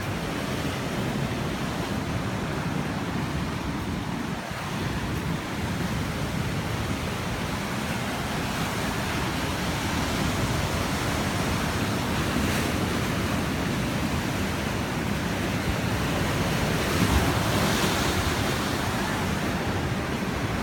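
Sea waves breaking and washing against rocks, a steady rush of surf that swells a little now and then, with wind buffeting the microphone.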